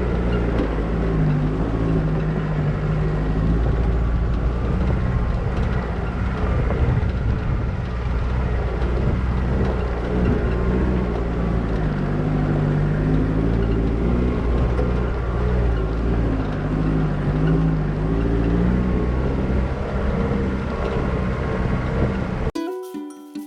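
Vehicle engine running steadily under a low rumble, its pitch drifting up and down as it drives. Near the end it cuts off abruptly and plucked-string music begins.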